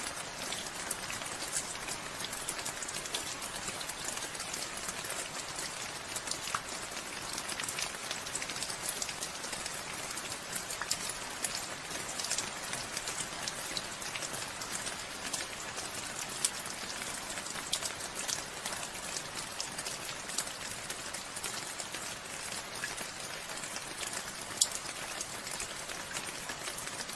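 Steady rain falling, with many close drops pattering and ticking on a surface over a constant hiss; an occasional louder drop stands out.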